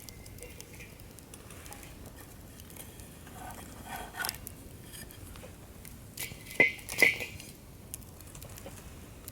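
Wood fire crackling with scattered small pops, then two sharp, ringing clinks close together about two-thirds of the way through.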